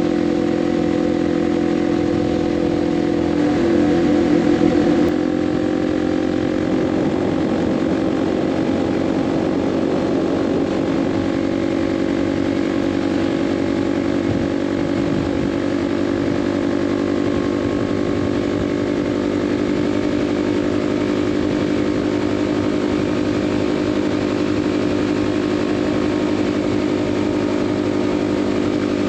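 Kawasaki KLX 300's single-cylinder engine running steadily while riding at highway speed, with a brief louder pulsing stretch a few seconds in.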